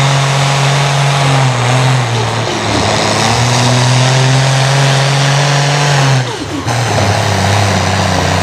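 Pulling vehicle's engine running hard at high, steady revs under load. The pitch sags briefly about two and a half seconds in, then drops about six seconds in with a short dip in loudness, and runs on at lower revs.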